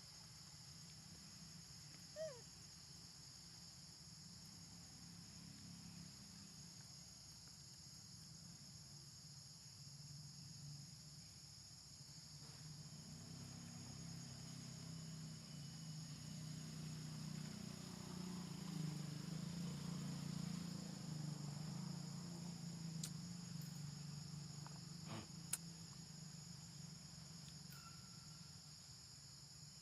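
Faint, steady chorus of insects, crickets or cicadas, holding a high continuous pitch. A low hum swells in the middle and fades again, with a short falling call about two seconds in and two sharp clicks near the end.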